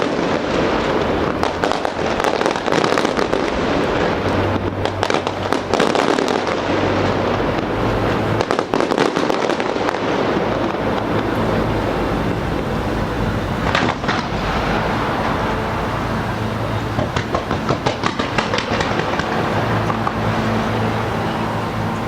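Fireworks display going off continuously, a dense run of bangs and crackling with many sharp cracks, over a low steady hum.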